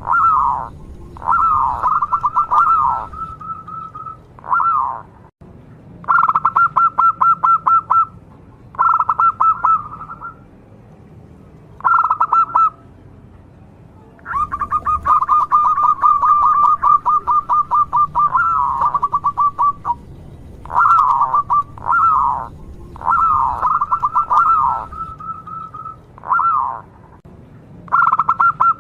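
Local zebra dove (perkutut) cooing in repeated phrases, each a quick stutter of notes ending on a held tone, with a longer run of cooing in the middle.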